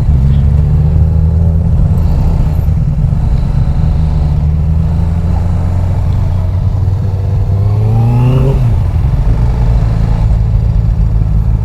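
Motorcycle engine running under way, from the rider's position. Its pitch climbs steadily for about two seconds as it revs up, then falls off sharply about eight and a half seconds in.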